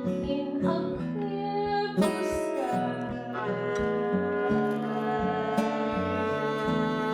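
Live acoustic song performance: acoustic guitar strumming and picking with sustained notes, and a singing voice in places.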